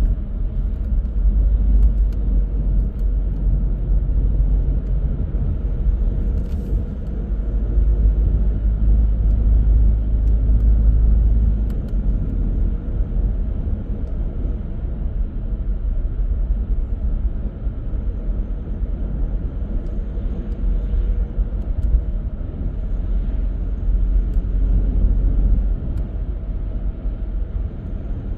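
Car driving along the road: a steady low rumble of engine and tyre noise. The rumble is heaviest for about the first twelve seconds, then eases slightly.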